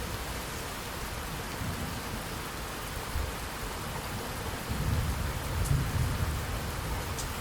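Steady heavy rain falling, with a low rumble of distant thunder swelling about two-thirds of the way through and a few sharp drip ticks.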